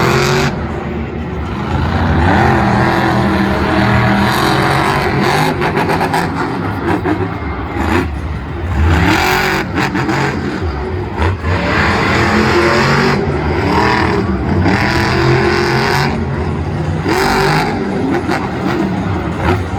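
Monster truck's supercharged V8 engine revving hard and loud, its pitch rising and falling again and again.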